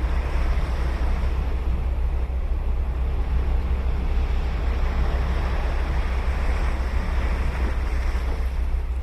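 Ocean surf breaking and washing up a sandy beach, the hiss swelling in the middle as a wave comes in, over a steady deep rumble.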